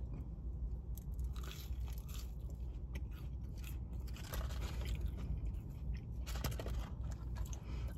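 McDonald's french fries being eaten close to the microphone: quiet chewing and crunching with small mouth clicks, over a low steady hum.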